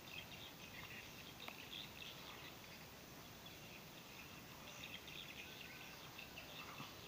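Quiet outdoor ambience: faint bird chirps come and go irregularly over a low steady hiss.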